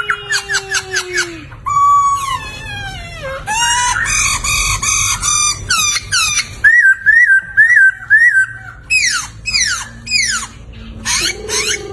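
Laughingthrush (poksay) singing a loud, varied whistled song: fast runs of repeated notes, long falling slurs, a string of rising-and-falling phrases and quick downward-sweeping calls.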